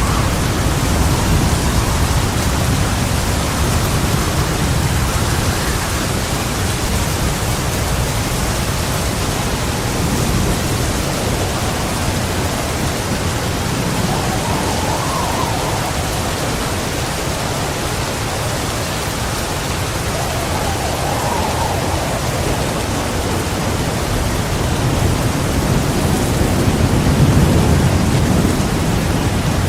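Heavy rain pouring in a steady hiss over a low, continuous thunder rumble. The rumble swells louder near the end.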